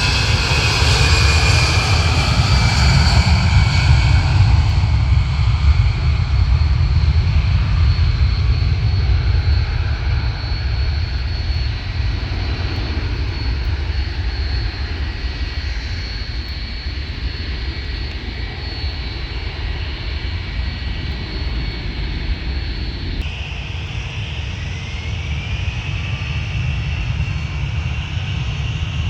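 Jet airliner engines running at takeoff power, loudest at the start with a high whine that falls in pitch as the aircraft passes and fades to a steady rumble. About three-quarters of the way through the sound changes abruptly and a whine rises in pitch, as of jet engines spooling up.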